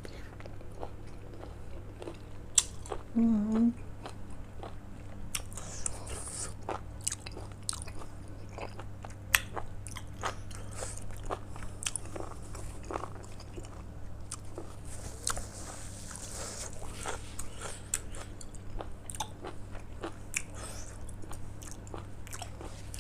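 Close-miked eating: a person biting and chewing seared beef, with wet chewing and crunchy bites, and a short hum from the eater about three seconds in.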